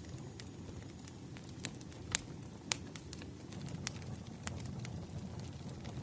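Wood fire crackling and popping: a low steady rumble of flames with irregular sharp pops, two louder ones about two and three seconds in.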